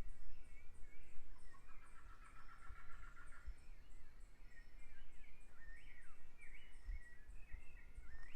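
Several songbirds singing in a forest, with varied warbling phrases and a fast trill a few seconds in, over a thin high chirp repeating steadily two to three times a second. A low rumble with a few soft thuds runs underneath.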